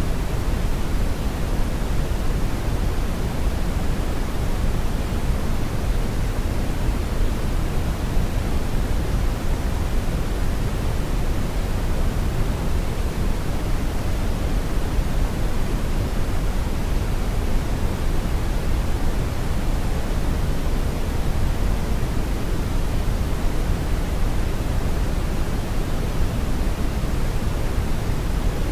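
Steady brown noise: an even, deep rushing hiss, heaviest in the low end and thinning toward the top, with no changes or events.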